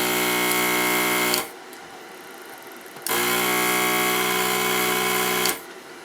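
Electric desoldering gun's vacuum pump buzzing in two bursts of about two seconds each, sucking molten solder out of circuit-board through-holes.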